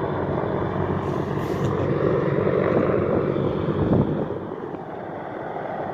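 Large military helicopter's rotors and engines: a steady low drone under a rushing wash that swells over the first few seconds, with a brief thump about four seconds in, then fades a little as it moves away.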